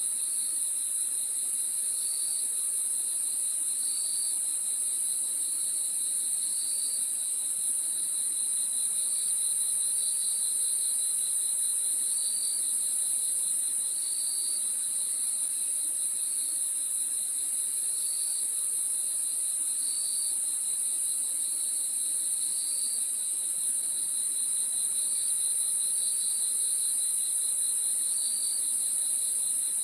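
Crickets chirping at night: a steady, high, continuous trill, with a second insect calling in short chirps about once every second or two over a lower pulsing trill.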